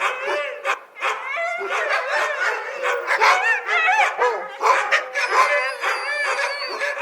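Dogs yipping and whining in quick, high-pitched calls that overlap one another with hardly a pause.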